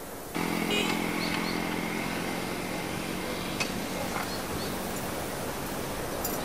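Small underbone motorcycle's engine idling; it comes in suddenly just after the start and dies away about three seconds in.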